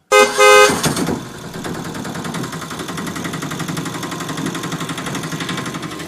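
A small homemade diesel engine running with a fast, even knocking beat. A loud, brief tone sounds just as it starts.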